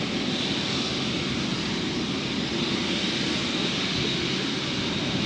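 Airliner jet engines running, a steady rushing noise with a faint high whine.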